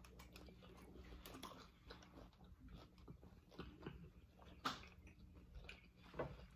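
Faint chewing and crunching of hard-shell corn tacos: a scatter of small crunches, with a sharper one about two-thirds of the way through.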